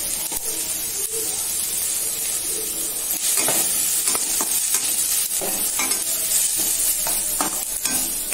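Chopped onions, green chillies and ginger-garlic paste sizzling as they sauté in hot oil in a steel kadai. A perforated steel spatula scrapes and stirs them against the pan in repeated strokes, which come thicker and a little louder from about three seconds in.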